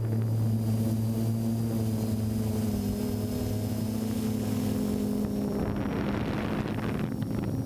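Drone motors and propellers humming steadily in flight, several steady pitches that shift slightly partway through. A rushing hiss swells briefly near the end.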